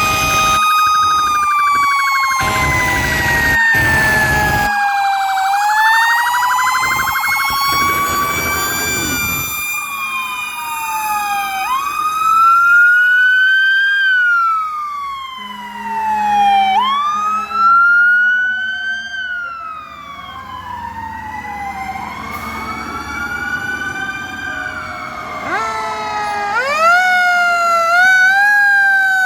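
Several fire truck sirens sounding at once, their wails rising and falling out of step with one another, with quicker repeated rising sweeps near the end. A low rumble runs under them for the first few seconds.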